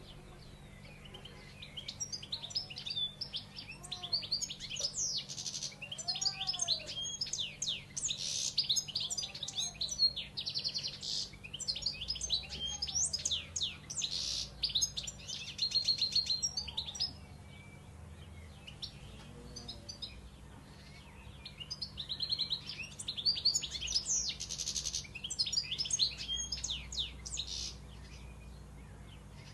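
A flock of small birds chirping and chattering in dense, rapid bursts, with a lull of a few seconds about two-thirds of the way through. Some slower, arched lower-pitched calls come in now and then during the first half.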